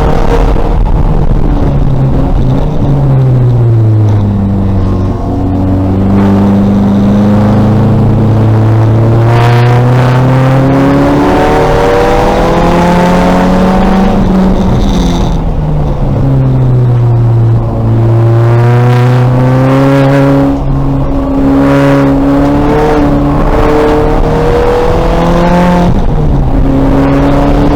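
The 2000 VW Golf race car's engine at racing pace, running loud the whole time. The revs fall twice as the car slows, then climb again through the gears, with audible shift steps in between.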